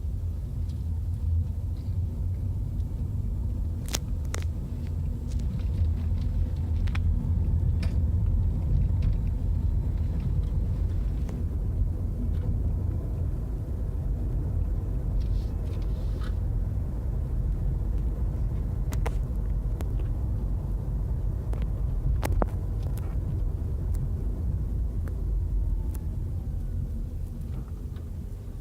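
Steady low road-and-tyre rumble of a 2011 Nissan Leaf electric car being driven, with a few sharp clicks and knocks scattered through.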